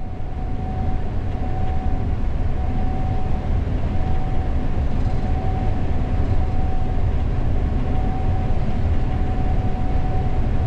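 Gleaner S98 combine harvesting corn, heard from the operator's cab: a steady low rumble of engine and threshing machinery with a steady high whine over it.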